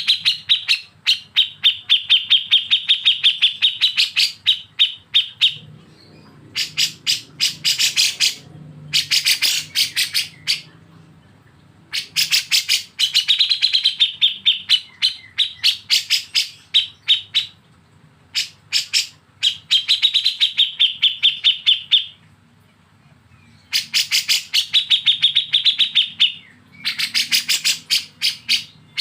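Caged songbird besetan (kapas tembak and cucak jenggot, kept songbirds sold as bulbuls): fast runs of sharp repeated notes, about six a second, ringing near the top of the voice. The runs last several seconds, with brief breaks between them.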